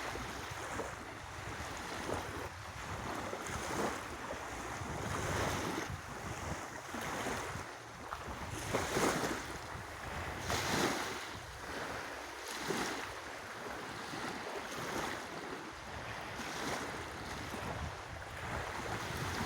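Lake waves washing in, in irregular surges every second or two, two of them stronger about nine and eleven seconds in, with wind buffeting the microphone.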